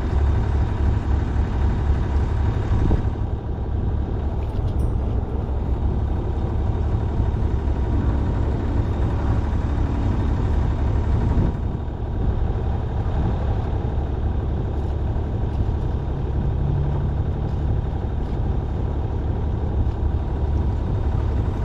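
A sailing yacht's engine running steadily, a continuous low rumble under way at low speed.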